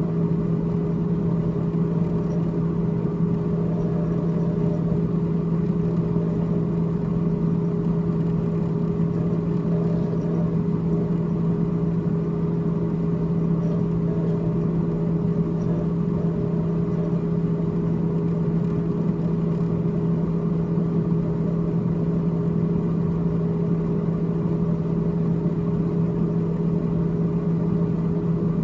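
Freezer fan in a GE GTH18XCTZRBB refrigerator running with a steady, unchanging hum.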